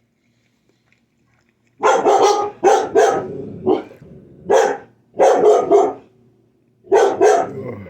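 Pet dog barking loudly and repeatedly, starting about two seconds in: a string of sharp barks in quick clusters of two or three.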